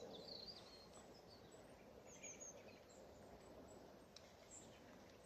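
Near silence with faint, short, high-pitched chirps from small songbirds scattered through.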